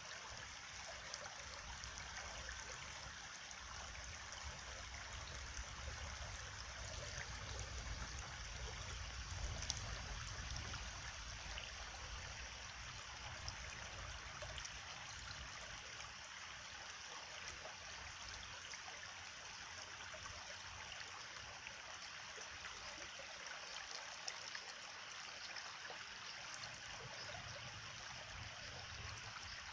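A stream flowing steadily, a continuous trickling rush of water that swells a little about a third of the way through.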